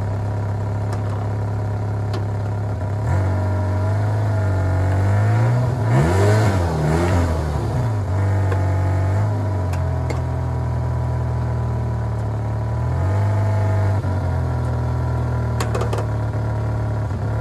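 Fiat Panda 4x4's engine running in first gear against the applied handbrake, revved so that the brake is made to hold the car. The revs rise and fall between about three and seven seconds in, then step up and hold twice more.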